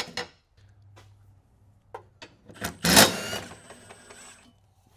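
A few light metal clicks, then one loud metallic clank about three seconds in that rings briefly before dying away, over a faint low hum.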